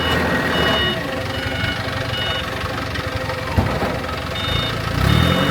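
Diesel engine of a piece of heavy machinery running, louder and changing pitch near the end, with a repeating short high electronic beep about twice a second and one sharp knock partway through.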